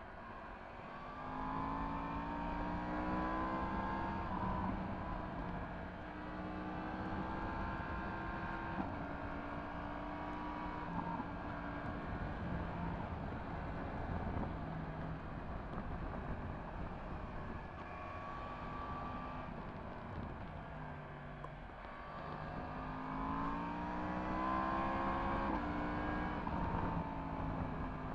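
Yamaha MT-10 SP's crossplane inline-four engine, breathing through an Akrapovic exhaust, pulling up through the gears under acceleration. The revs climb from a couple of seconds in, steady off through the middle with a few changes of pitch, then climb again near the end.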